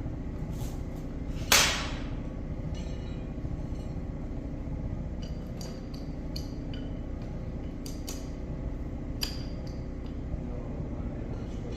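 A hammer strikes the steel parts of a rusted loader hydraulic cylinder: one loud ringing blow about a second and a half in, then several light metallic clinks and taps, as the rusted parts are worked free.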